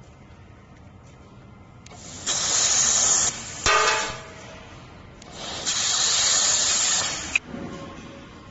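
Handheld fiber laser welding gun firing on sheet metal: hissing in two runs, about a second and about two seconds long, with a short sharper burst between them.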